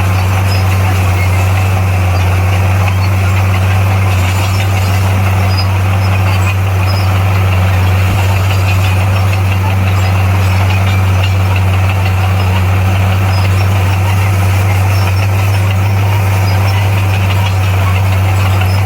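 Bulldozer's diesel engine running loudly and steadily with an even low drone.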